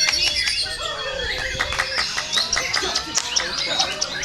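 Several white-rumped shamas (murai batu) singing at once, a dense overlapping jumble of loud whistles, trills and sharp chips without a break.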